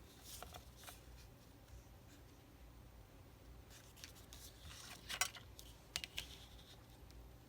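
Scissors cutting paper in a series of short snips, a couple of light ones near the start and a quicker run of sharper snips around five to six seconds in.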